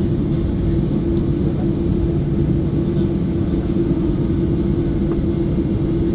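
Boeing 737-800's CFM56 jet engines running, heard inside the passenger cabin as a steady rumble with a constant droning tone.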